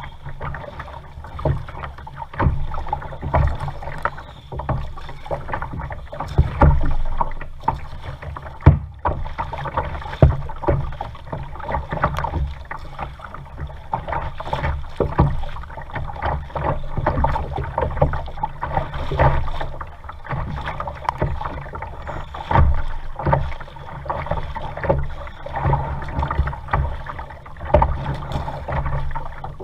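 A kayak being paddled on a lake: repeated paddle strokes splashing in the water, with irregular knocks.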